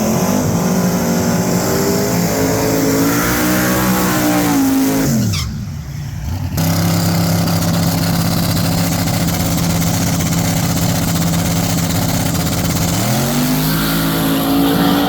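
Twin-turbo S10 drag truck racing a pass: engine at full throttle, its pitch climbing and falling for about five seconds, then after a sudden short break a steady drone, with the pitch rising again near the end.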